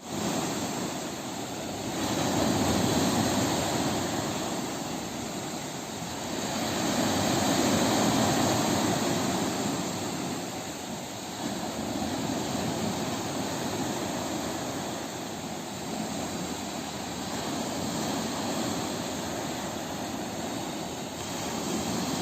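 Ocean surf breaking on a beach: a steady roar of waves that swells and eases every few seconds, loudest about three and eight seconds in.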